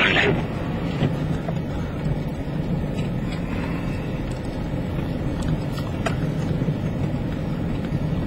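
A car running with a steady low rumble, with a brief louder noise at the start and a few faint clicks.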